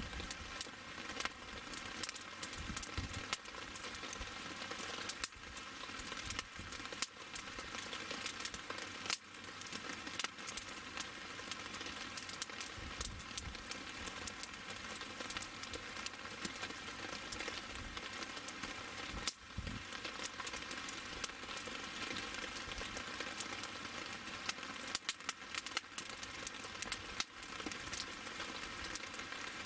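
Wood fire burning in a stainless-steel fire pit: a steady hiss with frequent sharp crackles and pops.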